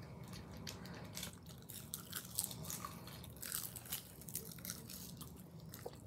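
Nori seaweed sheets crunching as they are bitten and chewed: a run of quick, irregular crisp crunches.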